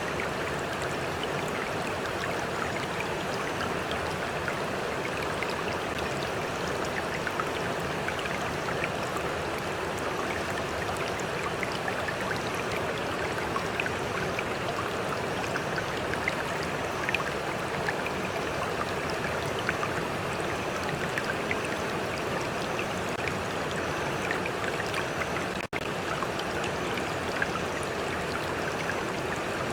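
Stream water flowing steadily, with a constant rushing and small splashes of water lapping close by. There is a faint high repeating chirp of cicadas behind it, and the sound drops out for a split second near the end.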